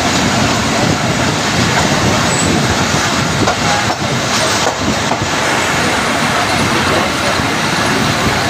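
Train noise: a steady, loud rumble and rattle of railway wheels and carriages running on the track.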